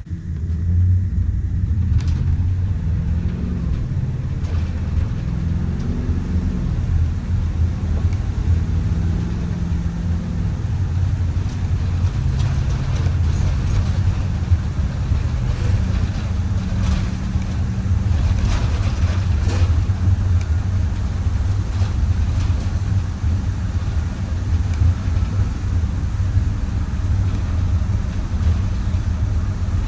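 Micro Bird Girardin G5 minibus driving, heard from inside the cabin: a steady low engine and road rumble. For the first ten seconds or so the engine note climbs in steps as the bus speeds up, then it settles into cruising.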